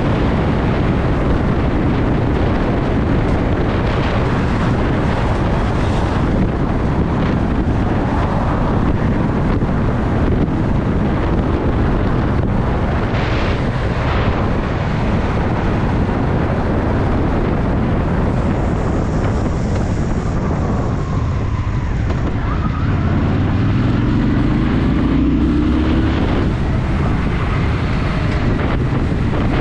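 Honda Shadow VT750's V-twin engine running under way, with wind buffeting the microphone. About three-quarters of the way through, the engine note rises as the bike accelerates.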